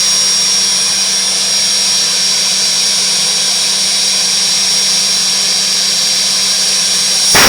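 Helicopter engine running steadily with a high, even whine over a rushing noise and a low hum. Just before the end it suddenly gets louder and fuller.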